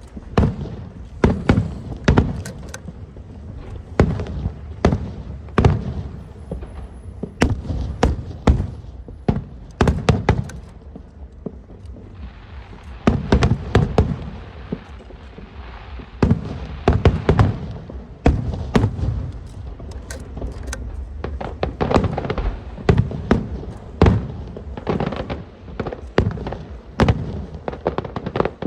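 Aerial fireworks going off in a rapid, irregular barrage: many sharp booms and bangs, several a second, with rumbling between them and a stretch of crackling hiss about halfway through.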